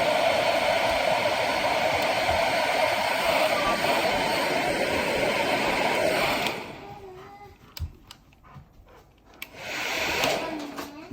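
Hair dryer blowing on its cold-air setting: a steady rushing whoosh with a hum in it that cuts off about six and a half seconds in. A few faint clicks follow.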